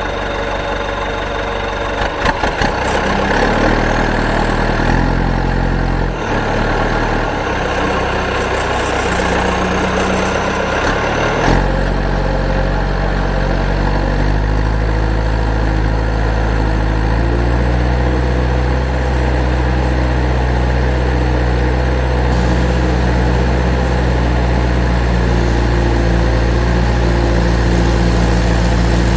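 Truck engine running, its pitch stepping up and down several times, with a few clicks, over the first twelve seconds, then settling into a steady low idle.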